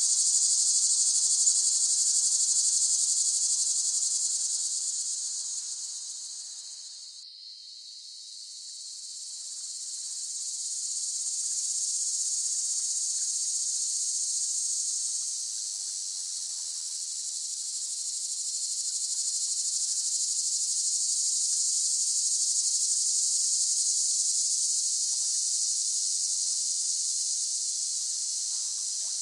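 Cicadas droning in a dense, continuous high-pitched buzz. The chorus fades down about a quarter of the way in, then swells back up and holds steady.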